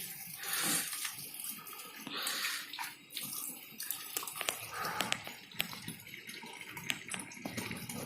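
Water splashing and pouring in short spells, with small sharp clicks and knocks, mostly in the second half.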